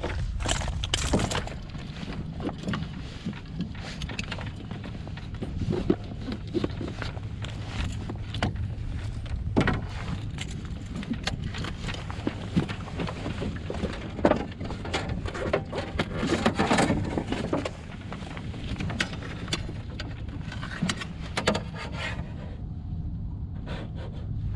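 Irregular knocks, scrapes and rattles of gear and a fish being handled in a small jon boat, over a steady low rumble.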